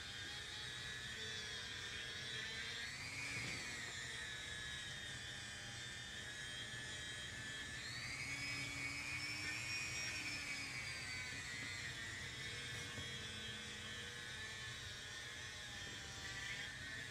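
High-speed rotary tool whining steadily as it sands the aluminium case of a Honda transmission. Its pitch rises briefly about three seconds in, and again from about eight to ten seconds in, as the load on the bit changes.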